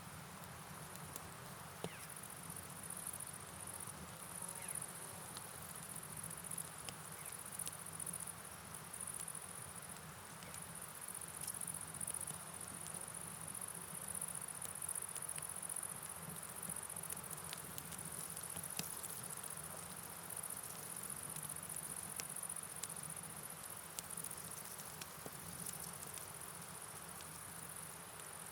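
Steady night ambience of rain and a flowing river, with a constant high-pitched chirring chorus on top and scattered light ticks.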